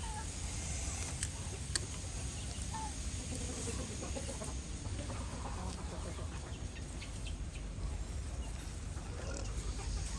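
Chickens clucking faintly over a steady low rumble, with two sharp clicks between one and two seconds in.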